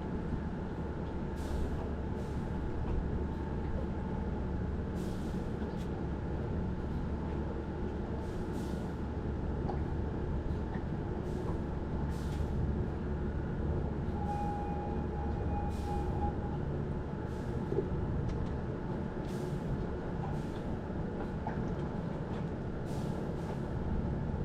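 Steady machinery hum: a continuous low rumble with several steady tones over it, and a brief higher tone about two-thirds of the way in.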